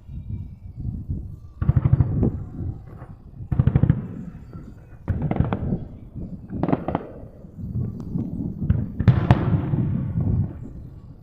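Aerial fireworks going off in a series: about five loud bursts a second or two apart, each a sudden boom with rapid crackling and a low rumbling tail.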